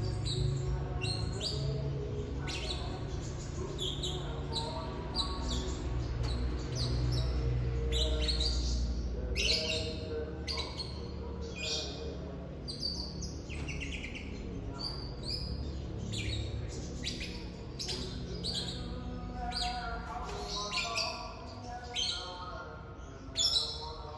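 A songbird singing a long series of short, quick chirps and trills, high-pitched and coming in rapid bursts. A low steady hum sits underneath for the first ten seconds or so, then fades.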